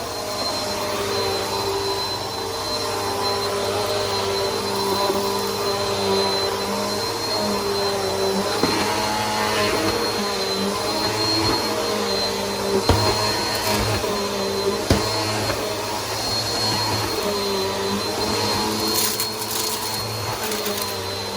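Brand-new Bissell PowerForce Helix upright vacuum running steadily while vacuuming, with a steady high whine over its motor hum. A few sharp knocks come about 13 and 15 seconds in, and a brief crackle near the end.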